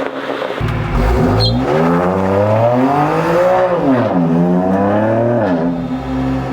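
BMW M2 Competition's twin-turbo straight-six through a Remus axle-back race exhaust, blipped twice from idle: the pitch climbs and falls back two times, then settles into a steady idle.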